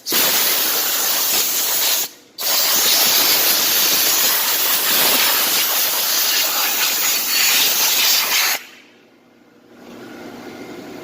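Pressure washer spraying a jet of water with a loud, steady hiss, cut off briefly about two seconds in and released near the end. A fainter steady hum follows.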